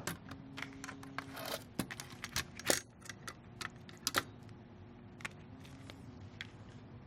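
Irregular small clicks and short rattles of screws, a screwdriver and a small metal shield being handled, about a dozen sharp ticks spread over several seconds.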